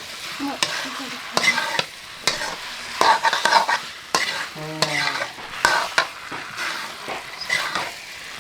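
Food frying and sizzling in a pan while a ladle or spatula stirs it, with repeated sharp, irregular scrapes against the pan.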